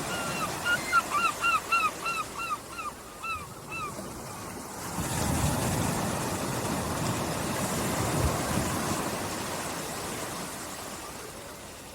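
Small waves washing and lapping on a beach. Over the first four seconds a bird gives a rapid series of about a dozen short, arched calls, roughly three a second.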